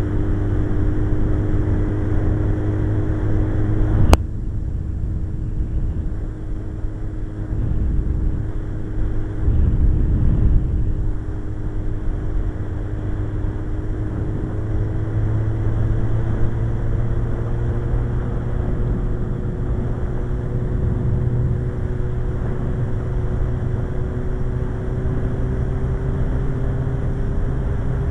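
Suzuki GSX-R1100 motorcycle's inline-four engine running at a steady cruise under heavy wind rumble on a helmet-level camera, the engine note rising slowly in pitch about halfway through. A single sharp click about four seconds in.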